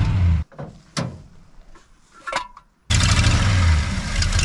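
1966 Chevelle SS 396's big-block V8 idling with a steady low hum. It drops away after about half a second, leaving a quiet stretch with a couple of sharp knocks, and comes back from about three seconds in. The engine has a vacuum leak, as the mechanic judges.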